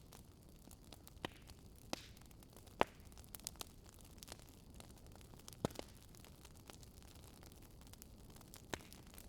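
Wood fire crackling: irregular sharp pops and snaps over a faint steady hiss, the loudest pop about three seconds in.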